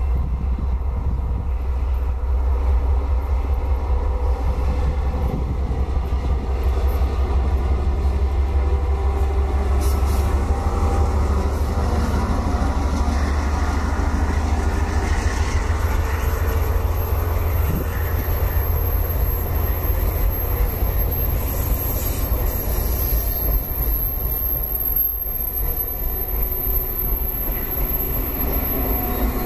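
A diesel-hauled train passes close by: the locomotive goes past in the first half, then a long string of boxcars rolls by with a steady rumble. A thin, high-pitched wheel squeal comes in about halfway through and holds.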